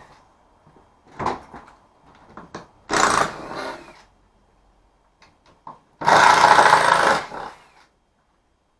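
Power saw run in short bursts cutting into the wall's timber: a brief burst about a second in, then two longer ones of about a second each, the last the loudest.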